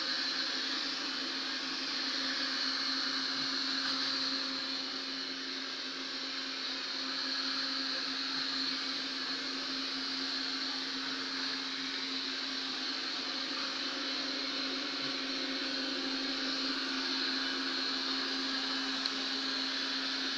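Robot vacuum cleaner running steadily: an even motor hum with a constant whirring hiss that does not change.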